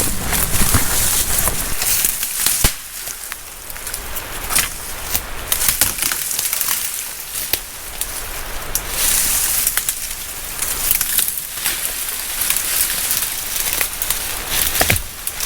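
A hiker's footsteps crunching and crackling on the forest trail, with irregular sharp snaps underfoot and a sharper crack about two and a half seconds in.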